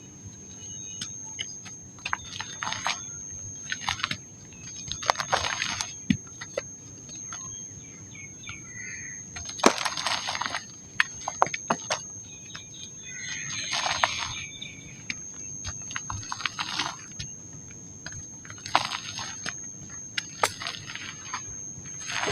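Dry pink mud being crushed and crumbled: a series of short gritty crunches every second or two, with sharp cracks among them. A steady thin high whine runs underneath.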